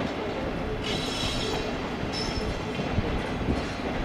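JR EF65 electric locomotive hauling freight wagons: a steady rumble of wheels on the track, with short bursts of high-pitched wheel squeal about a second in and again just after two seconds.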